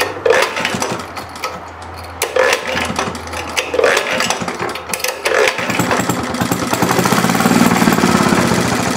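Rebuilt Maytag twin-cylinder engine running unevenly, with separate firing pops about a second and a half apart. About six seconds in it picks up into steadier, louder running. It is starving for fuel, in the owner's words, and is low on gas.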